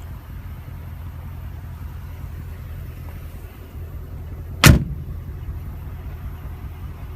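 A Mercedes-Benz G550's door slammed shut once, a single loud bang about two-thirds of the way in, over a steady low rumble.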